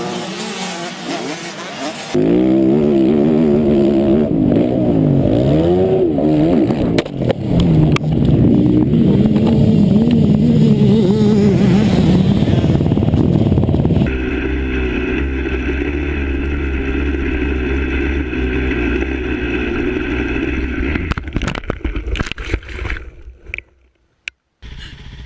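Motocross dirt bike engines revving up and down, heard across several abruptly cut clips. Near the end come several sharp knocks, then a brief dropout.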